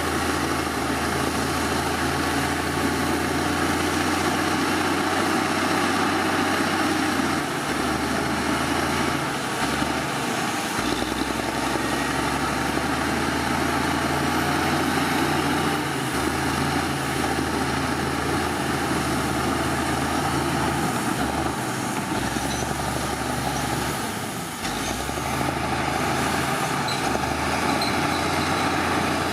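Heavy diesel earthmoving machinery running steadily at work, its deep engine note stepping up and down every few seconds, with a brief dip in level near the end.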